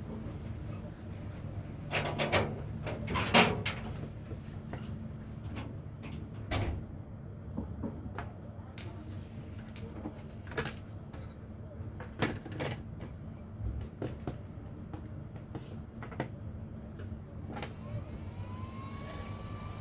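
Irregular clicks and knocks, the loudest a few seconds in, over a steady low hum; near the end a tone rises and then holds.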